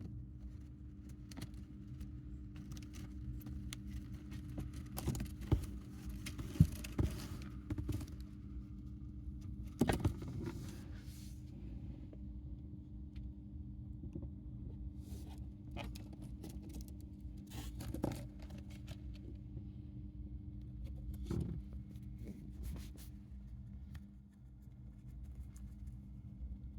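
A hamster nibbling and handling a piece of carrot: scattered small clicks and scrapes, busiest in the first half, over a steady low hum.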